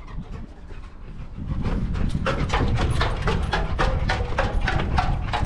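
A dog panting quickly, about four breaths a second, louder after the first second or so, over a low rumble.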